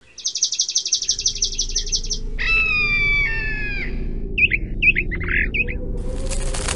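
Birds singing: a fast high trill, then a longer call that drops in pitch partway, then a few short chirps. About six seconds in a burst of rustling noise starts, over a low steady background hum.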